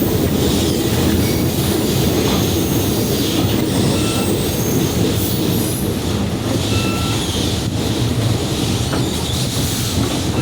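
Passenger train cars rolling along the track: a steady rumble with wheel clatter, and brief squeals from the wheels now and then.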